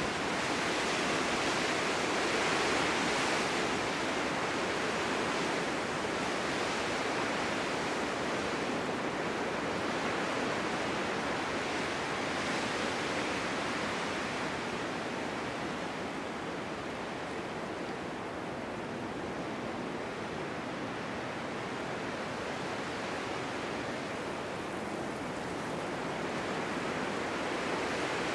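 Snowstorm wind blowing steadily, with no distinct tones or knocks. It swells in a gust a few seconds in, eases off through the middle, and builds again near the end.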